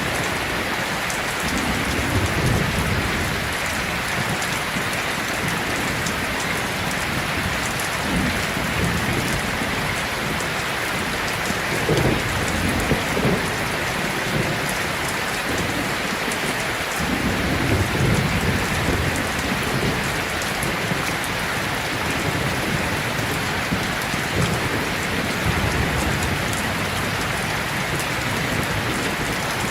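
Heavy rain falling steadily, with low rolling rumbles of thunder swelling up several times, most strongly about twelve seconds in and again a few seconds later.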